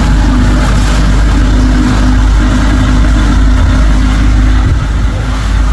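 Motorboat engine running steadily at speed while towing a tube, a constant loud hum under a broad rushing noise.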